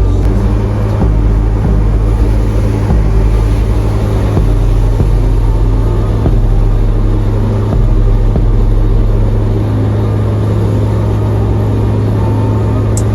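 Toyota AE86 Corolla's engine running steadily while the car is driven, a constant low drone.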